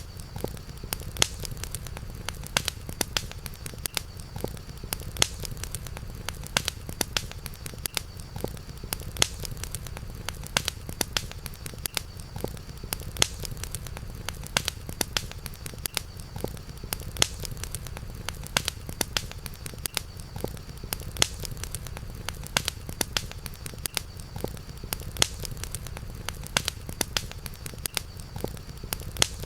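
Campfire crackling, with frequent irregular sharp pops over a steady low rumble. A faint, steady high tone sits behind it.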